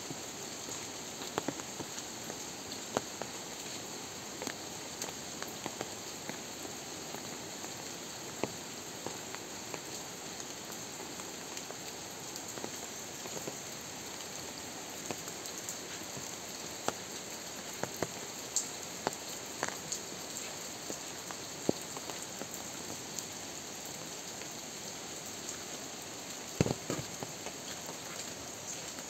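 Rain falling steadily, a continuous hiss with irregular sharp drips of single drops striking surfaces; a few louder knocks close together near the end.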